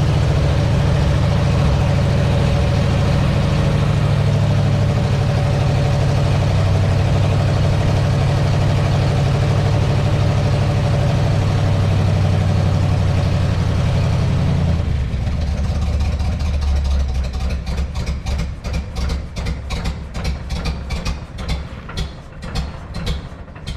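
Ford C-850 truck's gasoline engine idling steadily. About 15 seconds in its note drops and it runs on in uneven pulses, then dies away at the very end.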